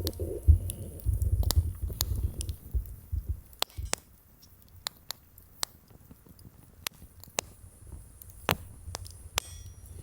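Wood campfire crackling, with irregular sharp pops scattered throughout. Low rumbling fills the first four seconds.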